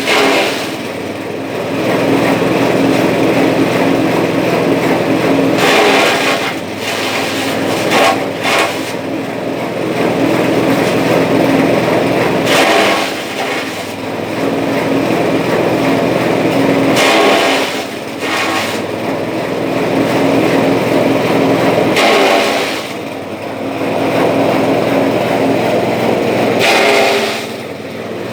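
Engine-driven grass chopper (chaff cutter) running steadily. Every four to five seconds a brief, harsher surge of cutting noise comes and goes as grass passes through the blades.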